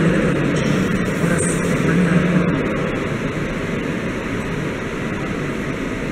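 Locomotive-hauled passenger coaches rolling slowly out of the station, with a steady rumble of wheels on the rails that eases gradually as the last coach goes by.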